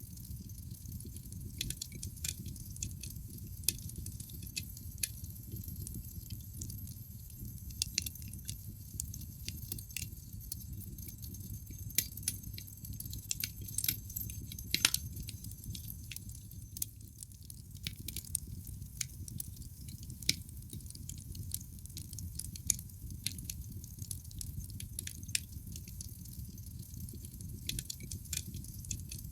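Wood fire in a fireplace crackling: irregular sharp pops and snaps over a low, steady rumble of burning, with a louder cluster of pops about 12 to 15 seconds in.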